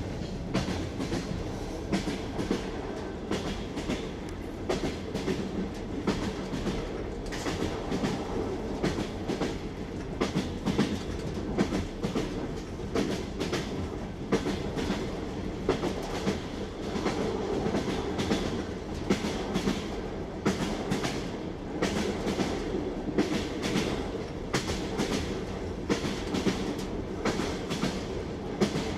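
Train wheels clattering over rail joints: a steady rolling rumble with a clickety-clack of sharp knocks coming in small groups again and again.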